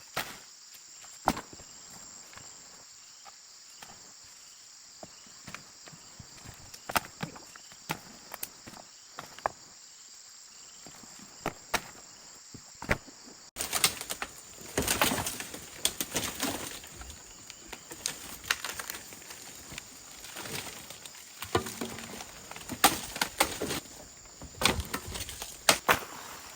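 Steady high insect chirring with scattered sharp knocks and taps. About halfway through there is an abrupt cut, after which the knocks come thicker and louder.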